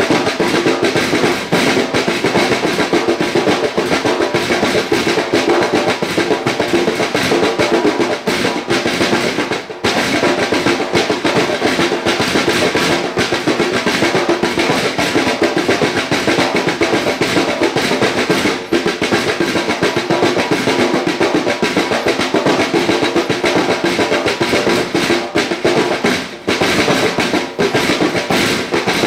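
Drums played fast and without a break, dense rapid strokes throughout.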